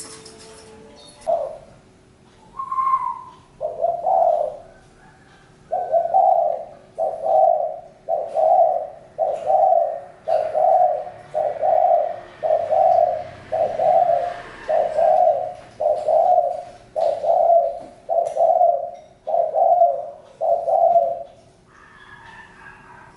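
Spotted dove cooing: a couple of single coos, then a long, even run of about fifteen low coos, roughly one a second, that stops near the end.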